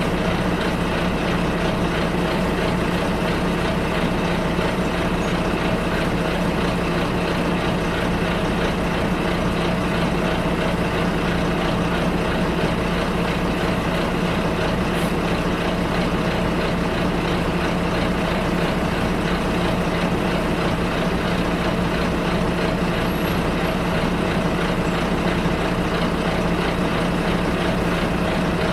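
Interior sound of a bus on the move: a steady engine drone with a constant hum and road noise, unchanging throughout.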